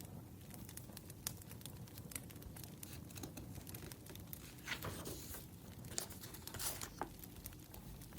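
Wood fire crackling with scattered small pops, with a couple of short paper rustles about five and almost seven seconds in.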